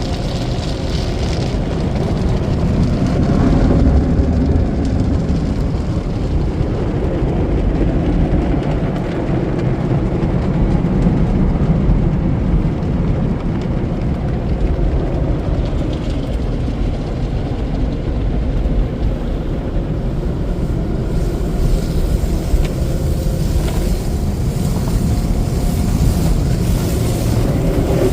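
Automatic car wash tunnel machinery heard from inside a car passing through: a loud, steady low rumble.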